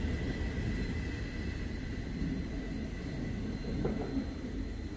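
Low, steady rumble of a train, slowly fading.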